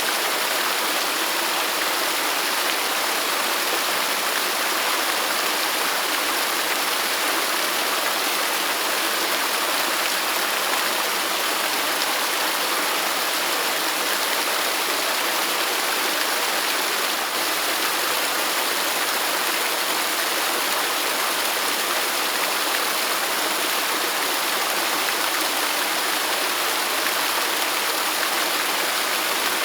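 A waterfall's steady rush of falling water, an even hiss-like roar that does not change.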